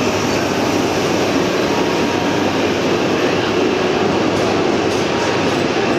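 Coupled E6 and E5 series Shinkansen train pulling out of the platform, with a loud, steady running noise of the train moving alongside.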